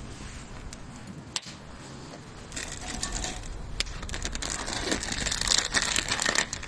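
Wood campfire crackling: scattered sharp pops, then from a little way in a denser hiss of crackles that grows louder toward the end.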